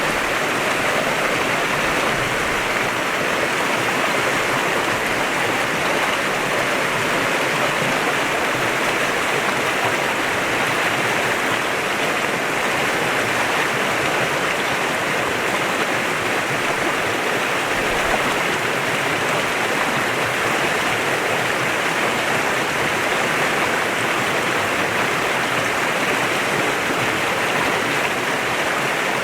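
A clear-water river flowing: a steady, even rush of water with no breaks.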